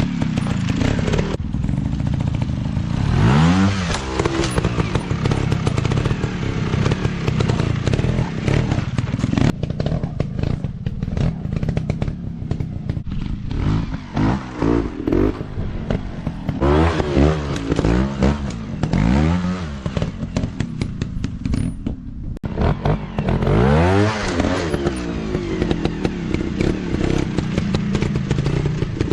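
Dirt bike engines running and revving, the pitch rising and falling again and again, with a run of short throttle blips through the middle.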